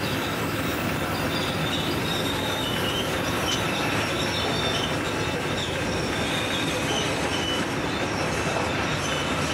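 A freight train's diesel-electric locomotives (80 class among them) pass slowly at close range, engines running, with a steady rumble of wheels on rail and some high wheel squeal. Near the end the grain hopper wagons begin rolling by.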